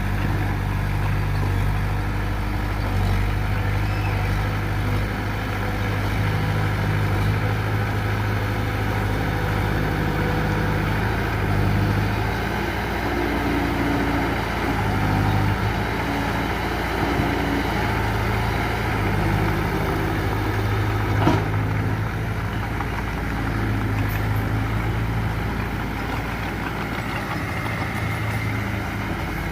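Mitsubishi BD2F bulldozer's diesel engine running steadily, its note swelling and easing as the load changes, with one sharp knock about 21 seconds in.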